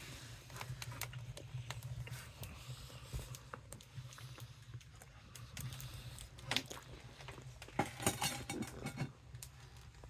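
Wood fire crackling in a stove-fireplace: irregular sharp snaps and pops, with a louder cluster about two thirds of the way in, over a steady low hum.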